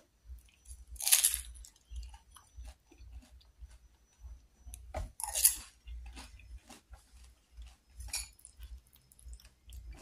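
A person chewing and crunching crisp fried batagor close to the microphone, with two louder crunches about a second in and about five seconds in, a smaller one near the end, and small wet mouth clicks between.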